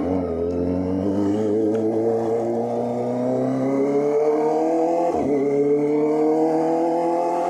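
Kawasaki ZX-25R inline-four with an SC Project exhaust, accelerating under way: the engine note climbs steadily, dips sharply at an upshift about five seconds in, then climbs again.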